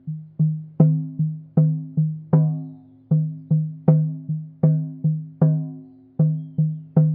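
A pitched hand drum struck in a steady rhythm, about two to three strokes a second. Each stroke rings with a low tone that fades before the next, with short pauses about three and six seconds in.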